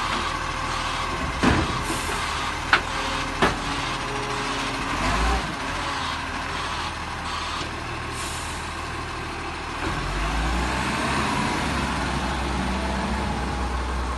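Garbage truck running close by, with three sharp clanks in the first few seconds and short hisses of released air. About ten seconds in the engine grows louder and rises in pitch.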